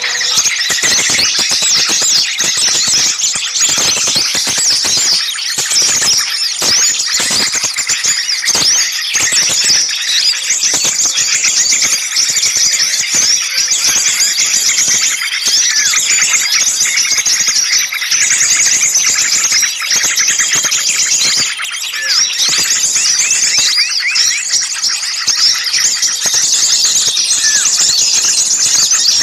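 A dense, noisy chorus of many small songbirds chirping and squeaking shrilly all at once, with no pause. It is a bird-lure (pikat) recording of agitated small birds, played to draw other small birds in.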